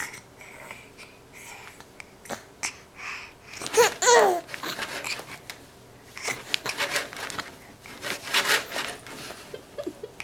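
A 6.5-month-old baby vocalizing: scattered babbling sounds, a loud squeal with gliding pitch about four seconds in, then a run of short breathy sounds.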